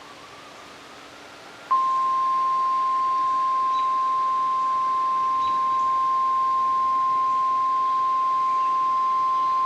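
NOAA Weather Radio warning alarm tone: a single steady, unbroken beep near 1 kHz. It starts suddenly about two seconds in and holds at one pitch. It signals that a warning broadcast follows, here a special marine warning.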